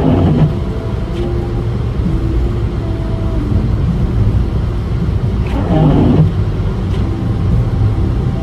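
Steady low rumble of a vehicle running, with faint humming tones over it and a brief louder rush about five and a half seconds in.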